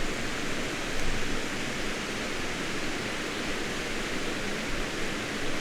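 Steady rush of flowing water, an even hiss.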